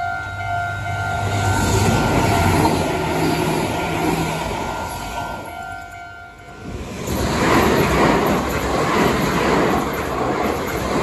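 Meitetsu electric trains passing at speed. One train's running noise swells and fades, then, after a break about six seconds in, another train rushes past.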